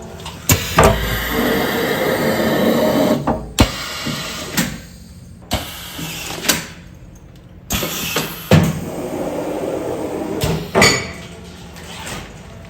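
Commercial automatic container-sealing machine running continuous sealing cycles on large soup containers: two stretches of steady machine noise, each lasting a few seconds, with sharp clunks and clacks from the mechanism around and between them.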